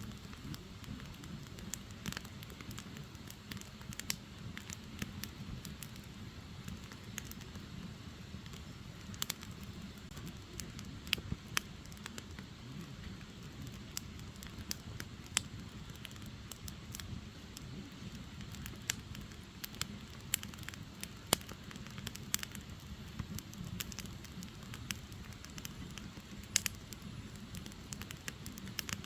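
Firewood logs burning, crackling and popping irregularly over a steady low rush of the flames.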